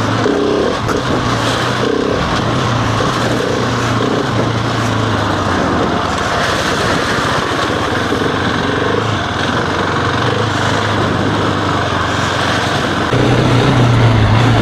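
Husqvarna 701's single-cylinder engine running at a steady pace while being ridden, over a constant rush of noise; the engine sound fades somewhat in the middle and grows louder again near the end.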